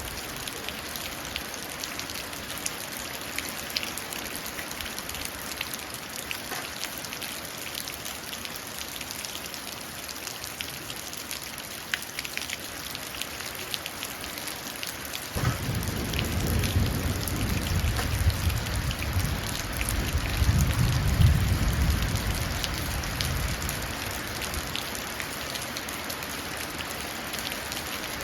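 Steady rain falling and running down into puddles, with scattered drip ticks. About halfway through a low rumble of thunder sets in suddenly, builds for several seconds and dies away.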